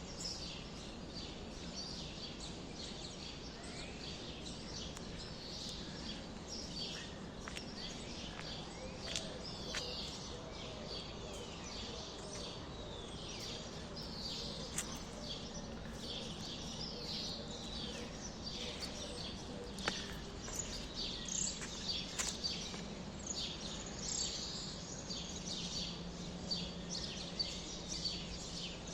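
Many small birds chirping together, a dense, overlapping chatter of short chirps over a steady background hiss.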